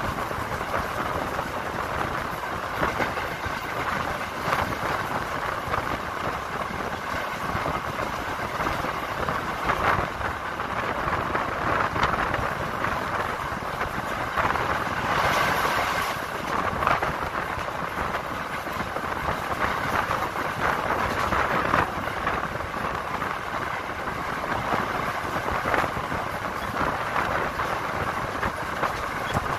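Passenger train running along the track: a steady rushing rattle with frequent short knocks.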